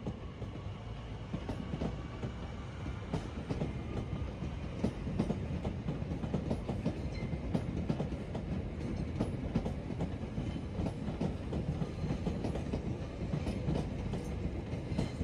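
Electric commuter train running over the switches of a station approach. Its wheels clatter in many irregular clicks over a steady low rumble.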